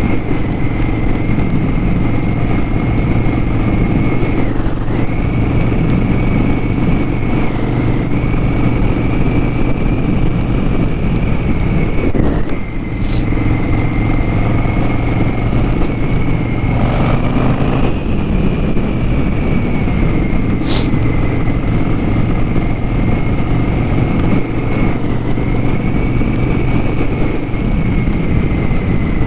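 Harley-Davidson Sportster 1200's air-cooled V-twin running steadily while riding, with a brief drop in loudness about twelve seconds in.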